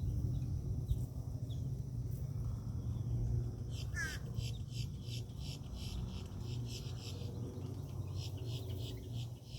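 Birds at a feeder chirping over and over in quick short notes, with a brief run of lower call notes about four seconds in, over a steady low rumble.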